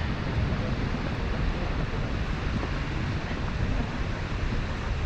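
Steady rushing roar of the Seljalandsfoss waterfall, with wind buffeting the microphone.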